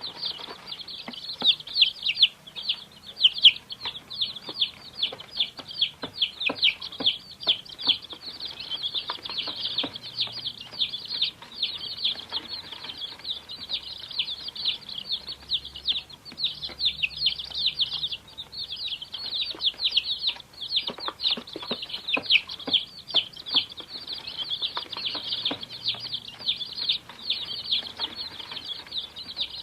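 Many domestic chicks cheeping at once: a dense, continuous chorus of short, high, downward-sliding peeps.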